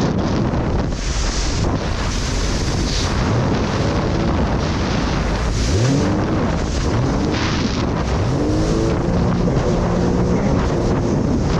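Jet ski engine running under way, with heavy wind noise on the microphone and hissing water spray; from about halfway on its pitch rises several times as the throttle is opened.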